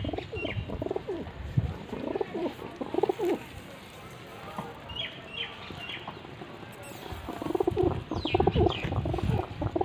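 Several pigeons cooing in bursts, with a few short higher chirps from other birds.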